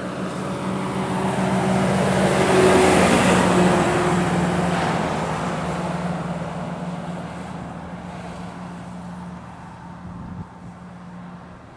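Heavy truck engine pulling under load up a climb as the lorry passes: it gets louder up to about three seconds in, then fades away.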